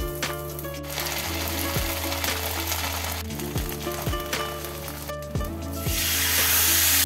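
Ginger paste and turmeric sizzling in hot oil in a steel wok, then water poured into the hot pan about six seconds in, bringing a louder hiss. Background music with a steady beat plays throughout.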